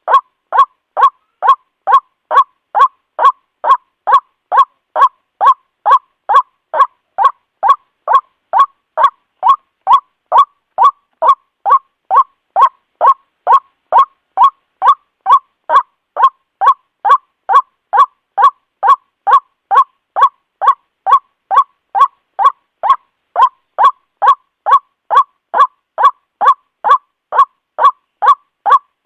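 White-breasted waterhen calls used as a bird lure: a harsh, nasal 'kwak' note repeated steadily about twice a second, each call short and cleanly separated.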